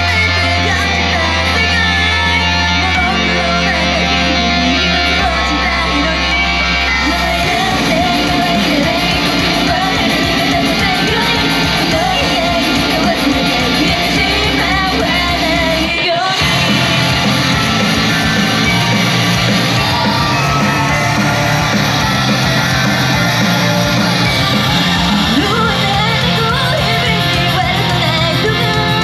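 Idol group singing live to a loud backing track with guitar and a bass line, in a large hall. The backing thins out briefly about sixteen seconds in, then picks up again.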